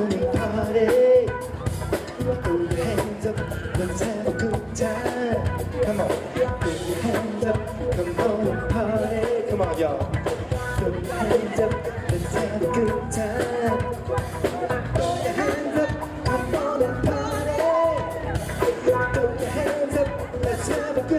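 Live band playing upbeat dance music with a steady drum beat and vocals.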